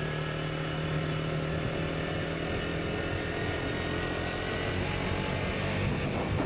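KTM Duke 125's single-cylinder engine running steadily under way; its note drops a little about halfway through.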